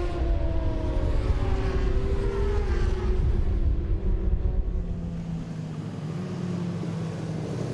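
Racing motorcycle engine going past with a falling pitch over a heavy low rumble, then settling into a steadier, lower engine note for the last few seconds.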